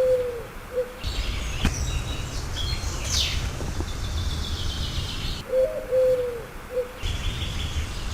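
A dove's cooing call, twice, about five seconds apart: a short low coo phrase each time, sliding slightly down in pitch. Underneath runs a soundtrack of high bird chirps and a steady low rumble.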